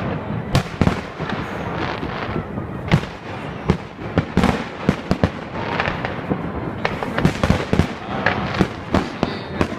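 Fireworks display: a dense, irregular run of firework bangs, several a second at times, over a continuous crackle.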